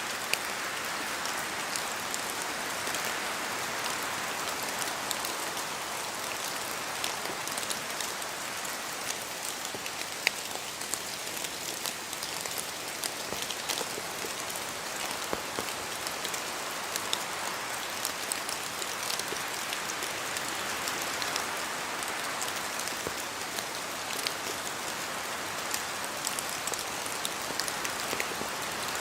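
Steady rain falling in a spruce forest, with scattered louder drops falling from the trees. Wind gusts through the branches, swelling around three seconds in and again about twenty seconds in.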